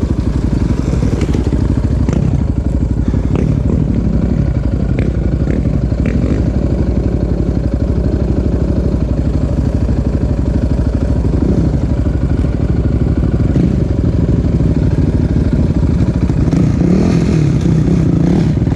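Loud off-road motorcycle or quad engine running steadily, its revs rising and falling a few times.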